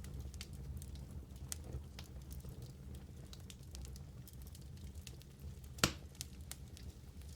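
Wood fire burning in a fireplace with steady, irregular crackling and a low rumble of the flames, with one sharp, louder pop a little before six seconds in.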